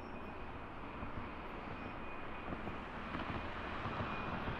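Jet airliner engines heard at a distance: a steady rumble with a faint thin high tone, growing slightly louder near the end.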